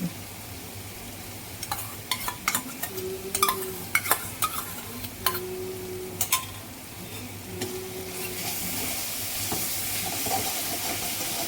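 A spoon stirs and scrapes a pan of sizzling spice masala with yogurt mixed in, clicking against the pan many times. The sizzle grows louder over the last few seconds as the masala fries until its oil begins to separate.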